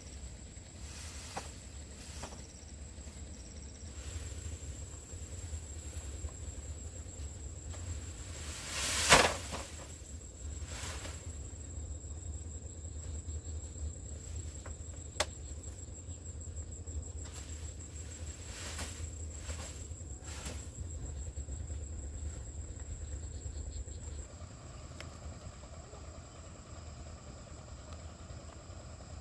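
A cricket or similar insect chirring as one steady high-pitched tone, stopping about 24 seconds in. Several short knocks and a loud swish about 9 seconds in break in over it.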